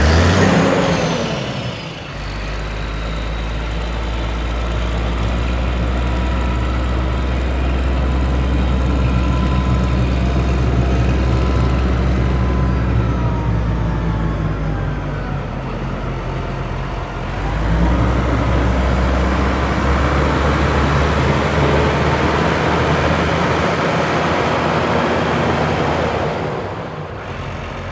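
John Deere 9320T tracked tractor's diesel engine running steadily. The engine sound sags about halfway through, picks up again a couple of seconds later, and eases off near the end.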